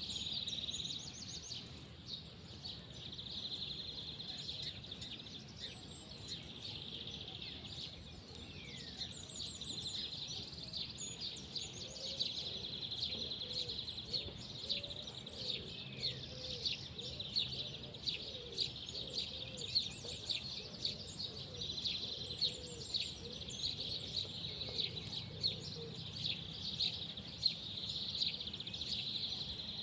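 Outdoor countryside ambience: small birds chirping repeatedly over a steady high-pitched shimmering chorus that does not let up. A faint wavering lower sound comes and goes through the middle of the stretch.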